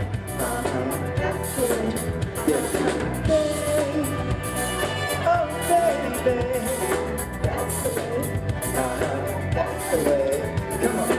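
A live dance band playing a disco-funk number, with a singer over drum kit and band.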